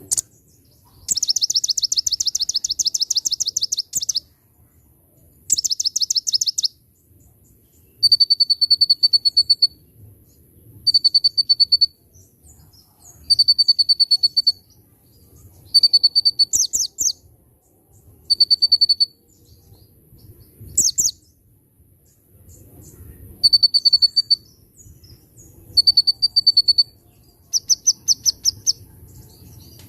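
Konin songbird singing loudly in repeated short phrases of rapid high notes, some fast chattering and some steady high trills, each a second or two long with brief pauses between. Its song is filled with bar-winged prinia (ciblek) phrases.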